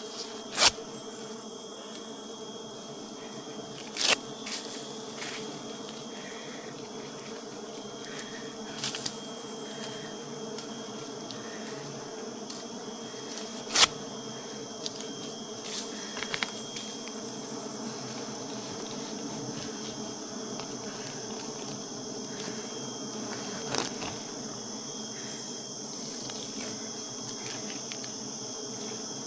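Honeybees buzzing steadily in a dense mass, with a few sharp clicks over it, the loudest about halfway through.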